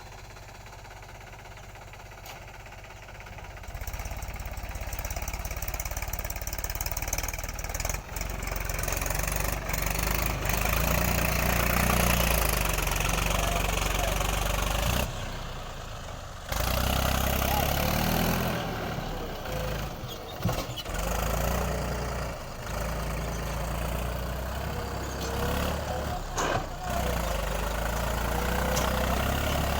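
Mahindra 265 DI Power+ tractor's diesel engine working as it pulls a loaded trolley out of a ploughed field. It gets much louder about four seconds in, and its level drops briefly a few times later on.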